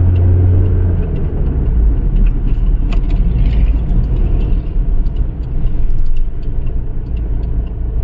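Hyundai Tucson being driven: a continuous low engine and road rumble. A strong low drone drops away about a second in, and faint scattered ticks sound through it.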